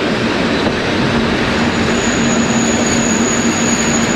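Carriages of a steam-hauled heritage passenger train rolling slowly along a station platform, heard from a carriage window. There is a steady rumble of wheels on rail, and a thin, high wheel squeal comes in a little before halfway and holds.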